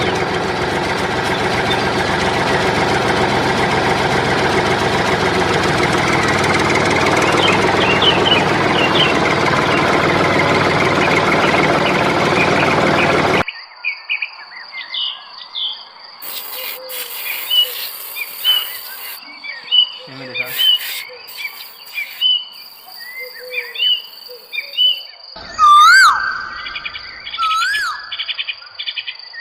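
A loud, steady mechanical whirring noise that cuts off abruptly about halfway through. Crickets then trill constantly and high-pitched, with scattered bird chirps and two rising-and-falling whistles near the end.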